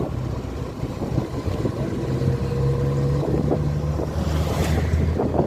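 An engine running steadily, its low tone shifting a little in pitch, with wind noise on the microphone. A brief hiss comes near the end.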